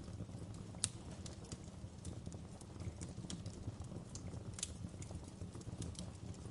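Wood fire crackling in a fireplace: a steady low rumble of flames with irregular sharp pops and snaps, the loudest a little under a second in and another strong one about four and a half seconds in.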